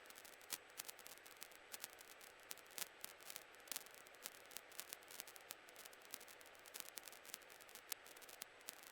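Near silence: faint static hiss with scattered crackling clicks on the cockpit audio feed between radio calls.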